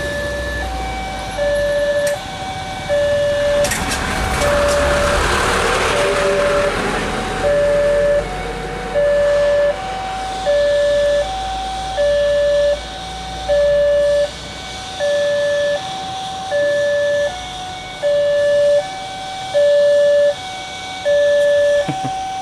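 Railway level-crossing warning alarm sounding a repeating electronic chime, about one note every second, alternating between two pitches. A loud rush of passing noise with a few sharp clicks swells and fades about four to seven seconds in.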